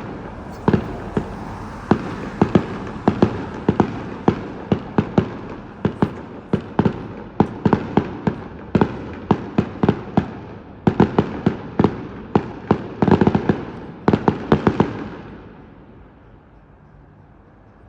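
Fireworks display: rapid volleys of aerial shells bursting, often several bangs a second, with crackle and rumble between them, dying away about fifteen seconds in.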